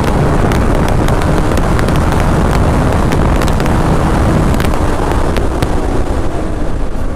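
Wind buffeting the microphone over a motorcycle running on the road: the Hero Xpulse 200, a single-cylinder bike fitted with an Akrapovic exhaust.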